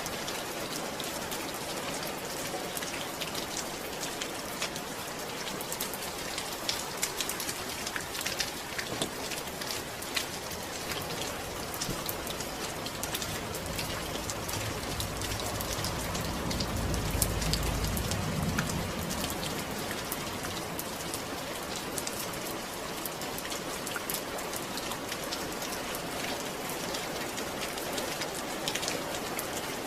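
Steady rain falling and pattering on surfaces, with many individual drops audible. A low rumble swells and fades about halfway through.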